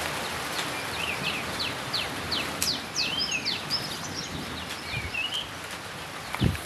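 Birds calling: quick, sharp downward-sweeping chirps several times a second mixed with short warbling notes, over a steady background hiss. A short low thump comes near the end.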